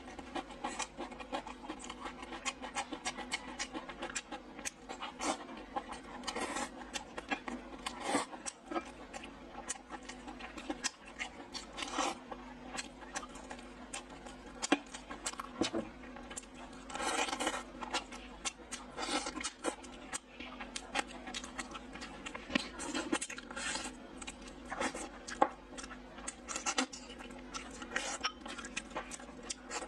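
Close-miked eating sounds: wet chewing and lip-smacking on stewed pork ribs, a rapid, irregular run of short clicks and smacks.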